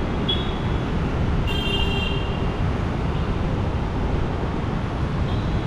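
Steady low vehicle and traffic rumble. A brief high-pitched tone sounds just after the start, and a stronger high tone lasting about half a second comes about one and a half seconds in.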